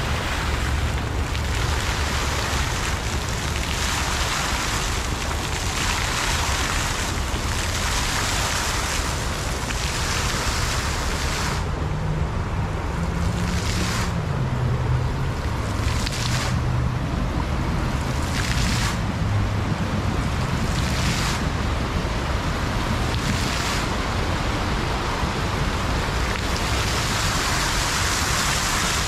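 Water falling and splashing steadily in a park water feature, a continuous rushing hiss that swells and eases slightly every few seconds.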